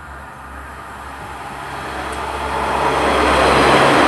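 Two coupled Class 143 Pacer diesel multiple units running through the station without stopping. Their engine drone and wheel noise grow steadily louder as they approach, then level off near the end.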